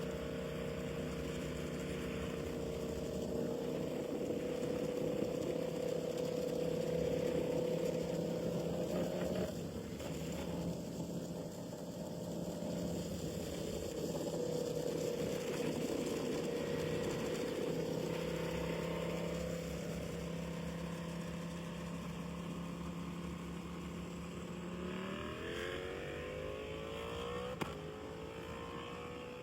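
Superbike engine running at a steady speed, with a short dip about ten seconds in, then rising in pitch as it accelerates near the end.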